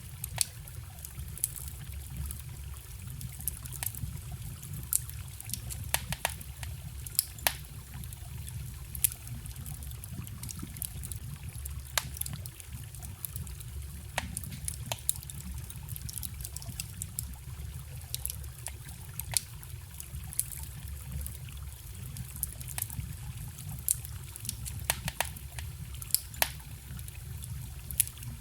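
Wood campfire crackling with sharp, irregular pops, over the steady trickle of a forest stream.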